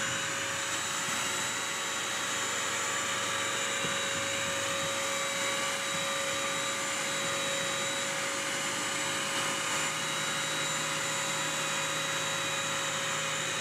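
BISSELL Crosswave multi-surface wet/dry vacuum running at a steady pitch with a high motor whine, its brush roll and suction working over a spill of ice cream and sprinkles on a hard floor.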